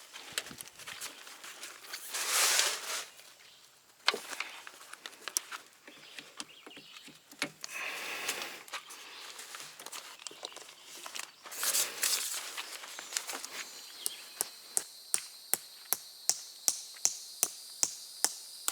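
Rustling and handling noises from camp gear being moved about, then a regular run of sharp clicks or knocks, about two a second, through the last five seconds, with a faint steady high whine alongside.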